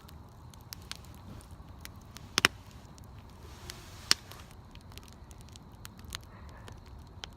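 Wood bonfire crackling, with scattered small snaps and two loud pops: a double one about two and a half seconds in and a single one about four seconds in.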